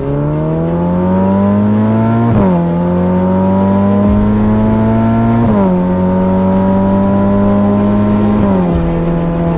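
Ferrari F8 Tributo's twin-turbo V8 accelerating hard through the gears: the engine note climbs steadily, then drops sharply at each of three upshifts, about every three seconds.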